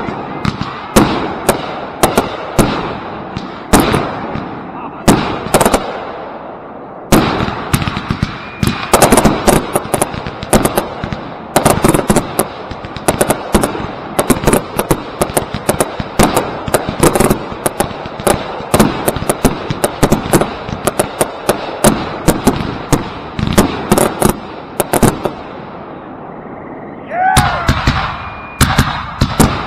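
Consumer firework cakes firing: a steady run of launch thumps and bursting shells, which turns into a dense, rapid barrage of bangs and crackling about seven seconds in. The barrage eases briefly near the end, then a rising whistle and more bangs follow.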